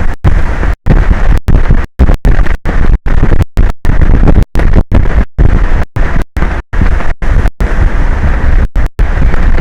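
Strong wind buffeting an exposed microphone, a loud, distorted low rumble cut by many brief dropouts, a few each second.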